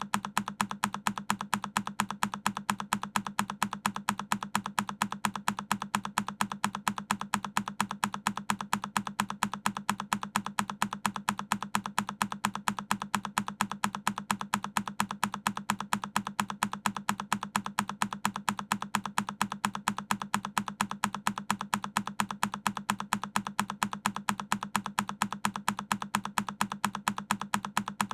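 A single key on a Keychron K10 mechanical keyboard pressed over and over, one identical keystroke click repeated in a fast, even rhythm.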